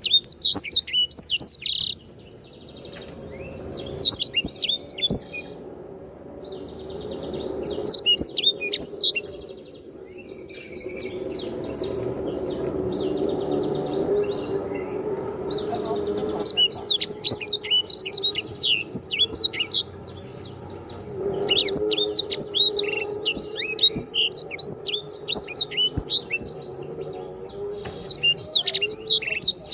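Sanger, a canary-type songbird, singing long bursts of rapid high chattering trills with short pauses between, steadiest in the second half, over a low steady hum.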